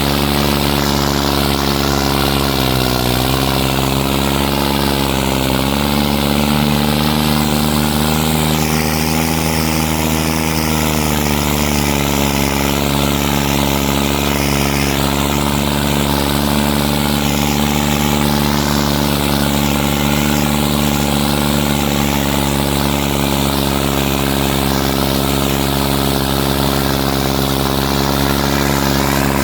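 Tractor diesel engine, a New Holland 3630, running steadily. Its pitch dips briefly twice in the first six seconds, then holds even.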